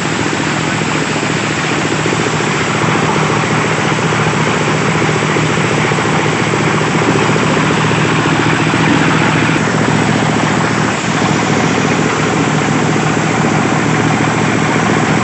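Engine-driven corn sheller running steadily while threshing wet, unhusked corn: a steady engine drone under a dense, even noise from the threshing.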